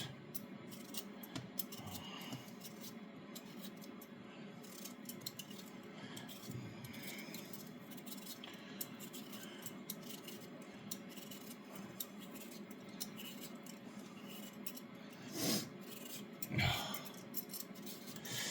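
A potato being worked on by hand: quiet, repeated scraping and small clicks, with two louder knocks near the end.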